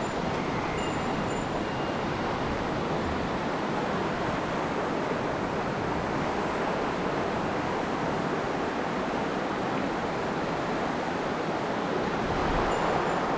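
Rushing water of a mountain stream running high after rain: a steady, even rush.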